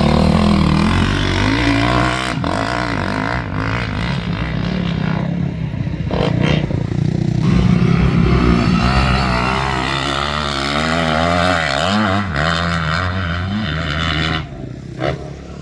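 Motocross motorcycle engine revving up and down repeatedly, its pitch rising and falling, and dropping away somewhat near the end.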